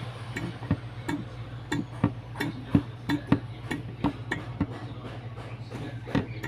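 One-way hand suction pump on the coolant breather hose being pumped, its valve clicking about three times a second as it draws trapped air out of the cooling system.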